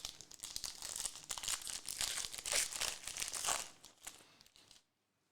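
Plastic trading-card pack wrapper being torn open and crinkled in the hands, a dense crackling rustle that stops shortly before the end.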